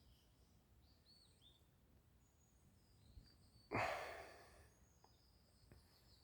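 Faint songbird calls and chirps in the background, with one short, sudden rush of noise close to the microphone a little under four seconds in that fades over about a second.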